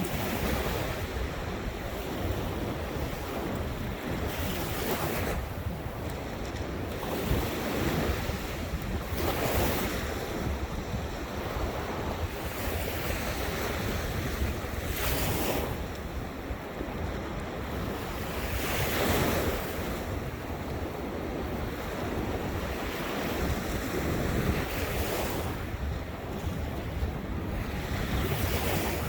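Ocean surf breaking on the shore, a wave washing in every four to five seconds over a steady wash of water, with wind buffeting the microphone in a constant low rumble.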